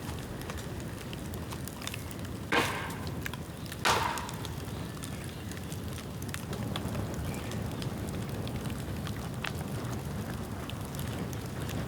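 Bamboo bonfire burning with a steady rush of flame and scattered crackling. Two loud sharp bangs come about two and a half and four seconds in: sealed bamboo sections bursting in the heat.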